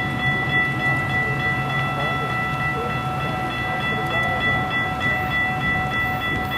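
Train sound: a steady low rumble with a continuous high ringing tone and its overtones held unbroken over it.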